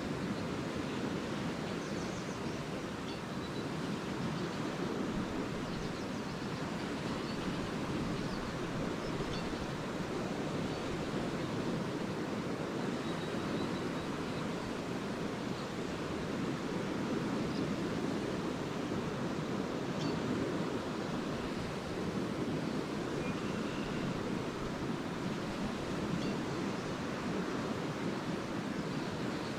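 Lake Erie waves washing steadily onto a sandy beach, a continuous surf wash with no distinct breaks. A few faint, short, high bird chirps come through here and there.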